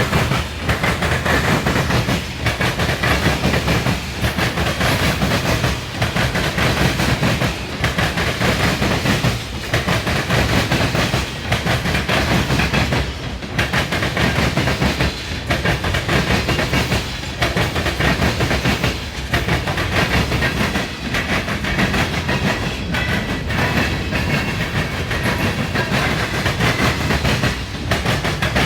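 Freight cars of a manifest train rolling past, a steady rumble and clatter of wheels on rail with a regular beat about every two seconds as each car goes by.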